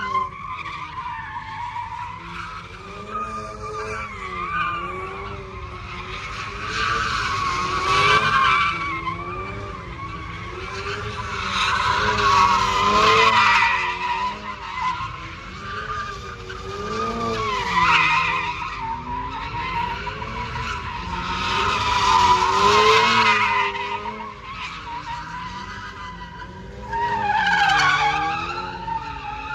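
A car doing donuts with its tyres screeching continuously and its engine revving up and down. The screech swells loudly about every five seconds as the car circles.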